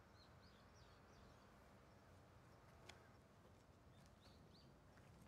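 Near silence: faint outdoor ambience with a few soft bird chirps, one group early and another about four seconds in, and a single faint click about three seconds in.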